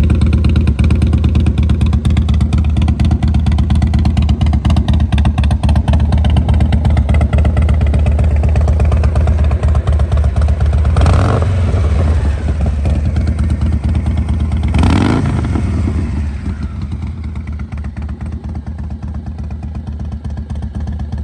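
2001 Harley-Davidson Softail Night Train's 88-cubic-inch Twin Cam V-twin idling, revved briefly twice, about eleven and fifteen seconds in, then settling back to a quieter idle.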